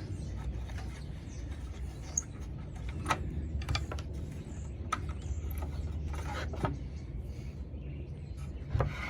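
Scattered light clicks and taps of hand work on a hinged wooden piece, with a steady low hum underneath.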